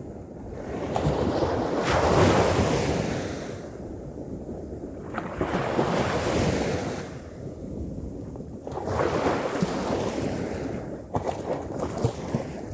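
Ocean surf breaking and washing on a beach, the rush of water swelling and falling away about every three to four seconds, three times, with some wind noise.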